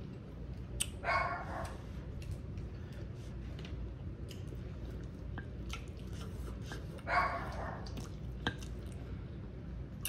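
Close-up eating sounds: chewing and mouth noises while eating spoonfuls of rice, with two short breathy bursts, one about a second in and one about seven seconds in, and a few small clicks. A steady low hum runs underneath.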